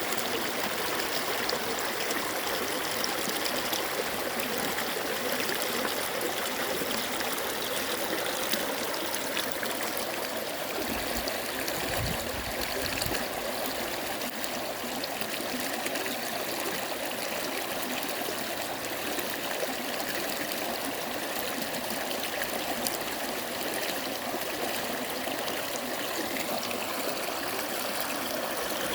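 Mountain stream water flowing steadily over rocks, with a brief low thump or rumble about halfway through.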